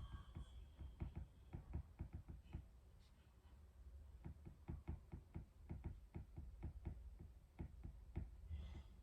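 Irregular light tapping, two to four taps a second, with a brief lull about three seconds in.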